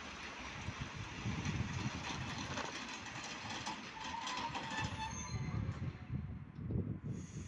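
A train running past on the rails, with clicks from the wheels over the track, its sound fading away about two-thirds of the way through. Gusty wind buffets the microphone underneath.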